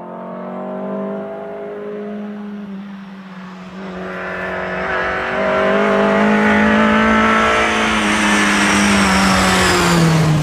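Historic rally car's engine held at high revs on a stage, growing louder as the car approaches. Near the end its pitch drops as it passes by.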